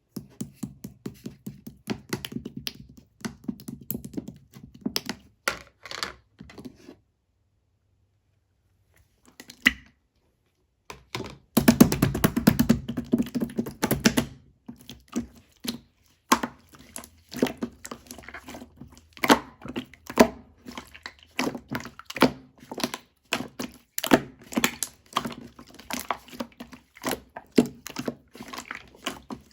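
Thick, chewy slime being squished, pressed and poked by hand, giving rapid sticky clicks and pops. It falls quiet for a couple of seconds, then picks up with a dense run of crackling squelches about twelve seconds in.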